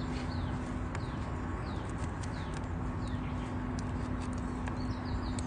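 Wood campfire crackling with scattered sharp pops, while small birds give short, repeated falling chirps.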